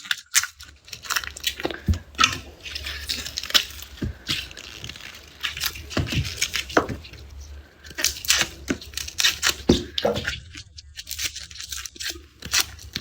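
Garlic being peeled by hand: the dry papery skins crackling and tearing, with many sharp snaps and clicks as cloves are broken off and stripped.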